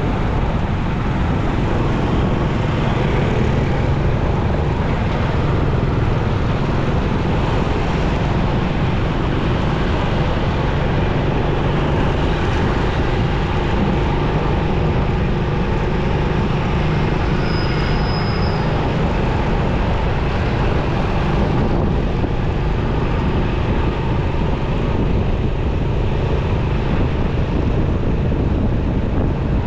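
Motorcycle riding in city traffic: a steady low rumble of wind and engine with road noise. A short high-pitched tone sounds once a little past the middle.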